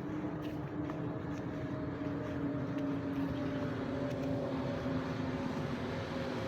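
A steady engine drone, its pitch falling slowly.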